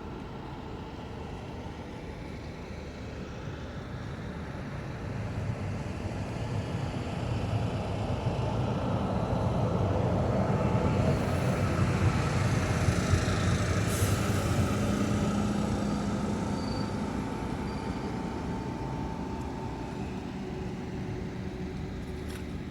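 A large vehicle passing: a low rumble with a rush of noise that builds to a peak about twelve seconds in, then slowly fades.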